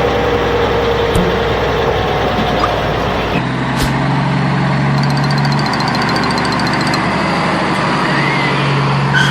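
Truck engine running steadily. About three and a half seconds in it settles into a steadier, lower drone.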